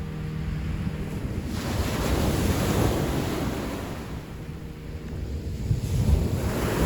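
Ocean waves breaking and washing up the shore: one surge builds about a second and a half in and fades away, and a second comes in near the end, with wind buffeting the microphone.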